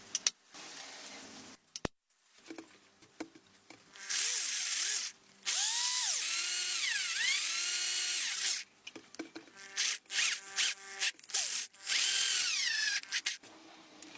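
Handheld power tool running in bursts: two long runs of several seconds, its pitch dipping and recovering as it bites into the work, then a string of short on-off bursts near the end.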